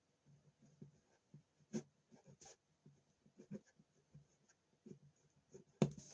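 Pen or pencil writing on a sheet of paper: faint, irregular scratches and small taps, with a sharper knock near the end.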